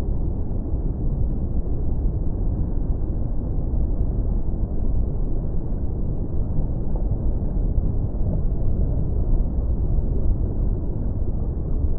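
Beach surf heard as a steady low rumble, with no separate wave breaks standing out.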